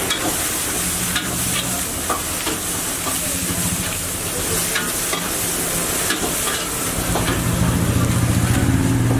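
Steady sizzle of food frying on a street-stall griddle, with short crinkles of paper as rolls are wrapped. A low hum grows louder near the end.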